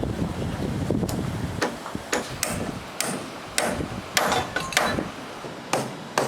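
Hammer blows on timber, about nine sharp strikes at an uneven pace of roughly one every half second, after a low rumbling noise in the first second and a half.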